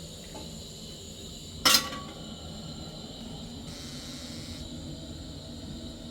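Steady low machine drone at a building site, with one sharp metallic clank a little under two seconds in and a short hiss about four seconds in.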